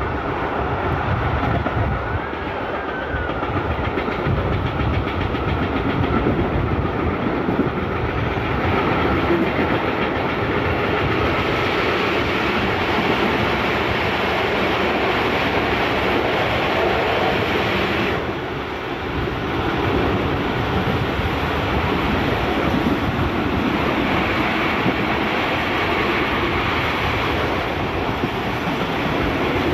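Ride noise of a historic Centoporte passenger carriage at speed: a steady rumble of wheels on the rails with clickety-clack over the rail joints. It dips briefly about two-thirds of the way through, then returns.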